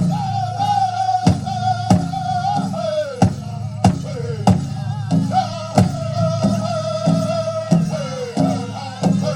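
Powwow drum group singing a chicken dance song: a big drum struck in an even beat, about three strokes every two seconds, under high, held, wavering vocal lines that fall away at the end of each phrase.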